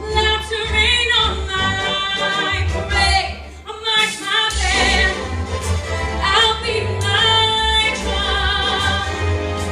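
A woman singing a show tune with a strong vibrato on held notes, over an instrumental accompaniment with a steady bass.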